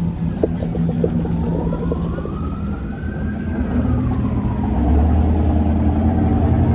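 Emergency vehicle siren with a slow wail, rising and falling every few seconds, over a low engine rumble that swells about five seconds in.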